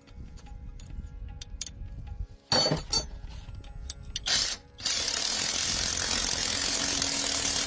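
Mechanical workshop noise: scattered clicks and a couple of short, loud noisy bursts, then from about five seconds in a steady, loud hiss that cuts off suddenly.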